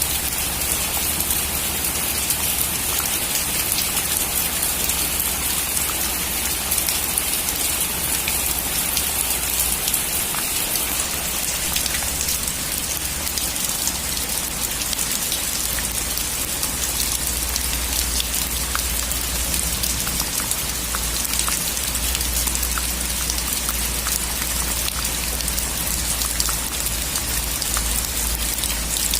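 Heavy rain falling on a metal roof: a steady dense hiss of rain with many single drops ticking, over a steady low rumble.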